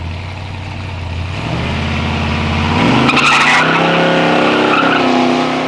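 A drag car's engine revving up in steps, with a short screech of spinning tires about three seconds in, then running at a higher, steady pitch.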